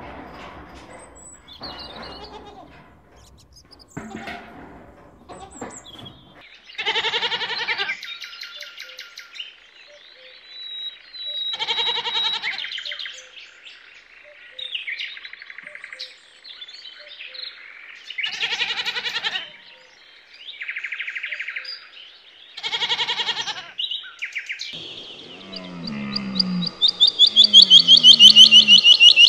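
Goats bleating: four separate wavering bleats a few seconds apart. Near the end comes a louder, high-pitched pulsing call that falls in pitch, over lower falling grunt-like notes.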